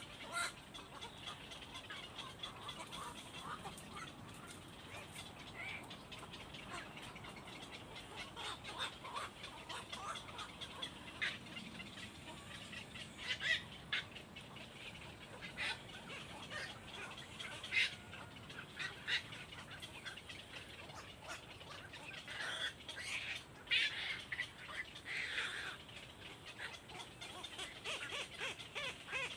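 Birds chirping: many short, sharp calls scattered irregularly, with a few louder ones now and then.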